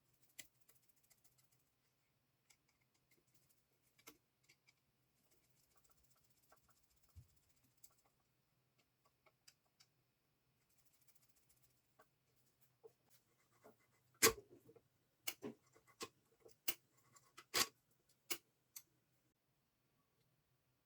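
Scattered light clicks and knocks, mostly faint, then a run of sharper knocks in the second half, as of small metal parts or hand tools being handled.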